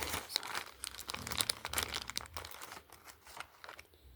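Packaging crinkling and tearing as it is handled and opened, a dense run of crackles that thins out near the end.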